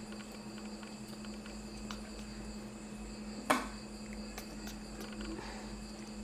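Insects chirring steadily at a high pitch over a low steady hum, with one sharp click about halfway through.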